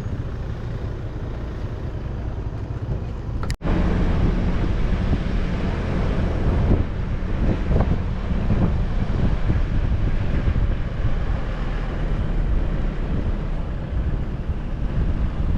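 Heavy diesel engine of road-building machinery running steadily as a low rumble, with wind buffeting the microphone. The sound drops out briefly about three and a half seconds in, then comes back louder.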